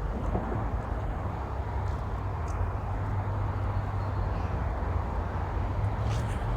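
Steady low rumble with a continuous hiss of outdoor background noise, with a few faint short high ticks near the end.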